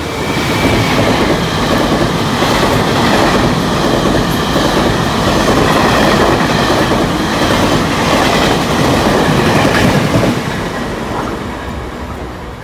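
Taiwan Railways push-pull Tze-Chiang express train passing through the station at speed: a loud, steady rush of wheels on rails and coaches going by, fading as the train pulls away about ten seconds in.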